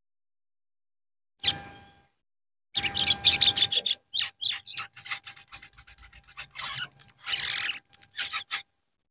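Sogon bird giving harsh, rasping chatter calls: one short call, then a rapid run of scratchy bursts that stops short near the end.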